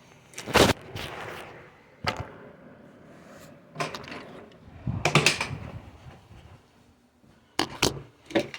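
A series of loud bangs and slams, about seven, at irregular intervals, with two close together near the end.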